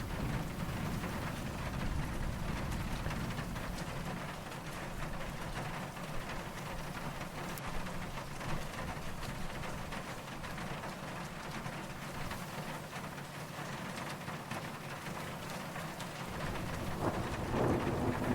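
Steady rain falling, with low distant thunder rumbling at the start and fading away. Another soft rumble swells near the end.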